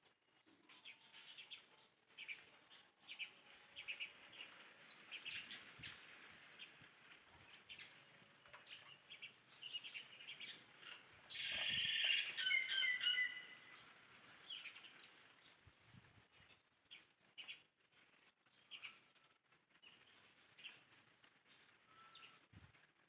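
Faint bird chirps repeated throughout, with a louder burst of high, piercing calls about halfway through.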